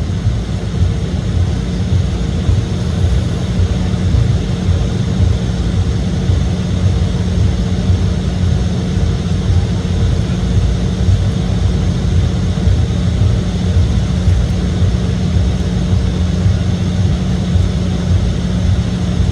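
Steady cabin rumble of an Embraer E175 regional jet heard from a window seat, mostly deep rumble with a steady low hum from the engines and airflow.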